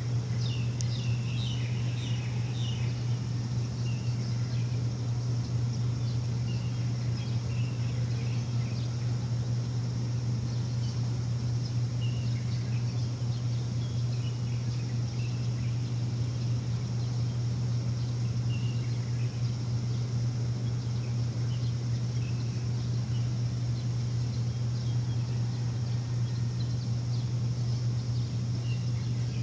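A steady low machine hum, with birds chirping in short calls now and then over it, more of them in the first few seconds and near the end.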